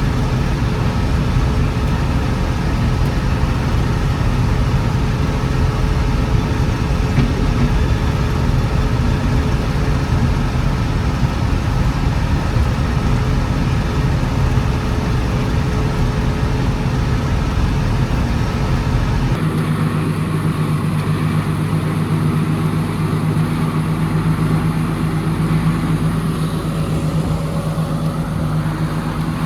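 John Deere 6600 combine running steadily while harvesting corn. About two-thirds of the way in the sound changes abruptly to a steadier, more evenly pitched hum.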